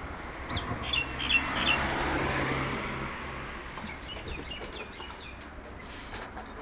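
A bird gives four quick high chirps about a second in, over a low rushing swell that fades by about three seconds. Scattered light clicks and rustles follow.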